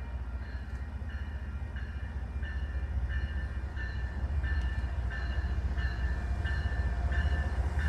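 Diesel commuter train approaching, its engine rumble growing louder, while a locomotive bell rings steadily, a little under twice a second.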